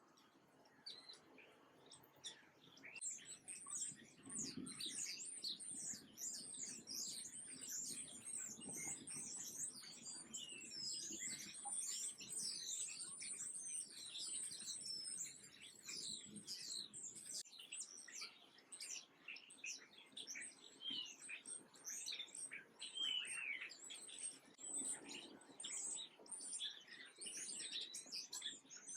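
Many small birds chirping and twittering together in a dense, overlapping chorus of quick, high, mostly falling notes, which starts about three seconds in.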